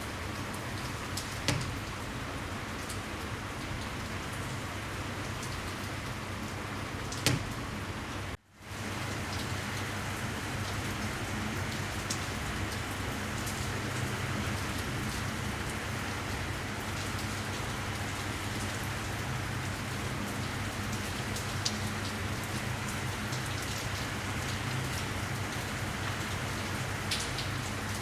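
Steady rain falling, with a few louder single drips or taps. The sound cuts out for a split second about eight seconds in, then carries on slightly louder.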